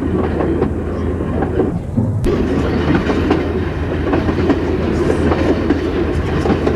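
Passenger railroad car rolling along the track: a steady rumble with the wheels clicking over rail joints, and a sharp click about two seconds in.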